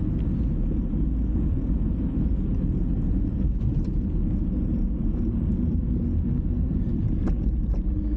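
Steady low rumble of wind buffeting the microphone while riding, with a few faint clicks about four seconds in and again near the end.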